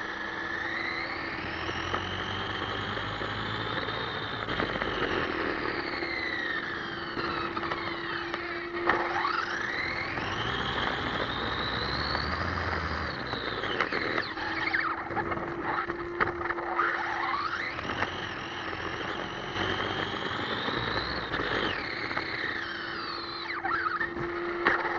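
The electric drive of an ECX Amp MT radio-controlled monster truck whining, its pitch climbing and dropping again and again as the truck speeds up and slows down.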